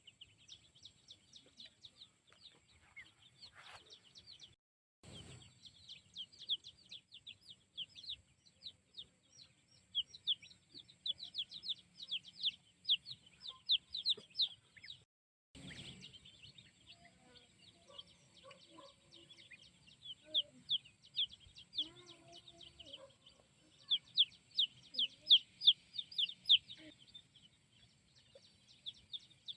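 Chicks peeping: many quick, high, downward chirps overlapping in runs, with a few lower clucks now and then in the second half.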